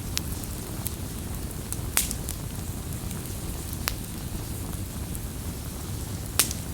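Campfire burning with a steady low rumble and scattered sharp crackles and pops from the burning wood, the loudest pop near the end.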